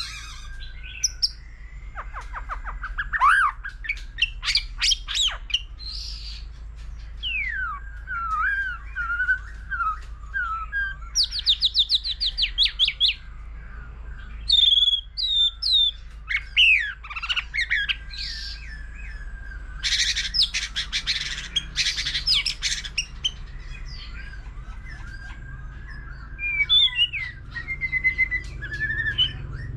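White-rumped shama singing a long, varied song: clear whistles and slurred notes mixed with fast trills, rapid repeated notes and bursts of harsh chatter, phrase after phrase with short pauses. A faint low hum runs underneath.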